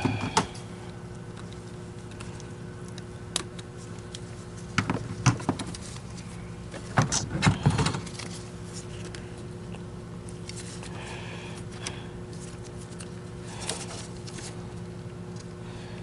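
Clicks, knocks and clatter of vacuum parts being handled and fitted by hand, in clusters about 5 and 7 seconds in, over a steady low hum.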